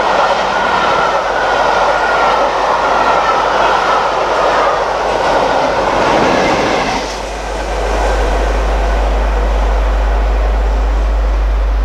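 Passenger coaches of a steam-hauled express running past at speed, a loud even rushing of wheels on rail with a faint steady ringing tone that fades. The diesel locomotive at the rear goes by about six seconds in, then the train noise drops away suddenly and a steady low rumble remains.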